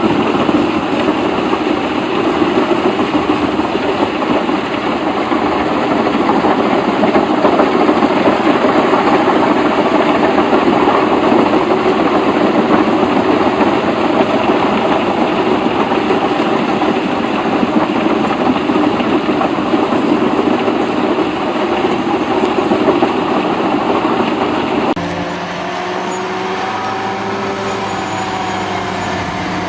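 A heavy machine's engine running loud and rough under load. Near the end it cuts abruptly to a steadier, quieter engine with a low hum.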